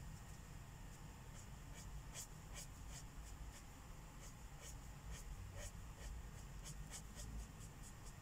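Felt-tip marker strokes on paper: faint, short, irregular scratching strokes, busiest about two to three seconds in and again near the end, over a steady low hum.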